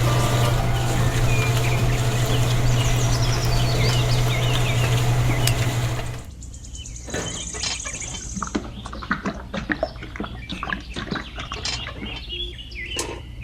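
A steady low hum from a small motor, with birds chirping above it; the hum cuts off abruptly about six seconds in, leaving bird chirps and scattered small clicks.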